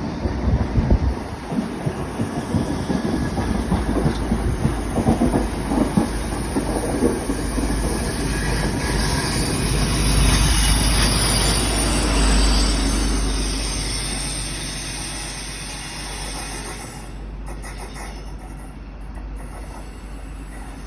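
The Midland Pullman, a converted HST set with Class 43 power cars, running past and drawing away, its wheels clattering over the rails. The rumble builds to its loudest about ten seconds in, then fades steadily as the train moves off.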